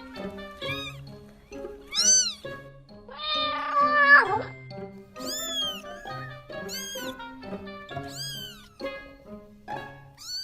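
Domestic cat meowing repeatedly, about seven short arched meows, with one longer meow that drops in pitch about four seconds in. Background music with steady notes plays underneath.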